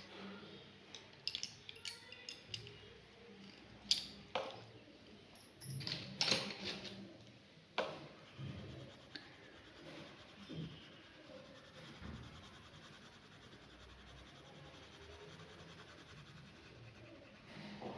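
Pen scratching on paper while drawing, with a few sharp clicks and taps in the first eight seconds and softer, steady scratching after.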